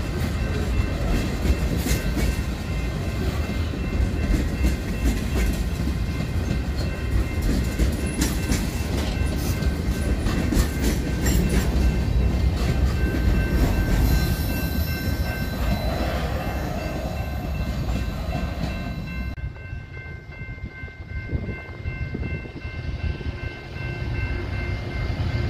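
Freight train of tank cars rolling through a grade crossing: a heavy rumble with wheels clacking over the rail joints and crossing, and a steady high ringing over it. About 19 seconds in, the last car passes and the sound drops away, then a second train's locomotive rumbles in near the end.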